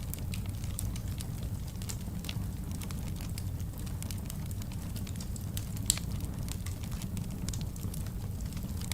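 Wood fire burning in a fireplace: a steady low rumble of flames with irregular small crackles and pops, one sharper pop about six seconds in.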